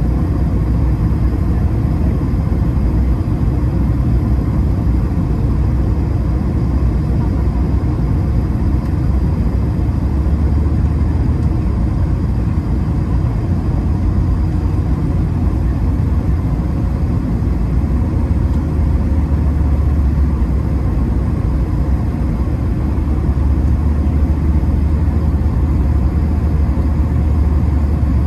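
Cabin noise of an Airbus A220-300 in flight, heard from a window seat: a steady low rumble of engine and airflow with faint steady whine tones above it.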